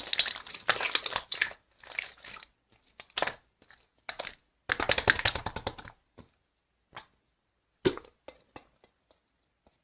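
Pink marbled slime being squeezed and pressed by hand, making bursts of crackling and popping clicks for about six seconds, then only a few scattered pops.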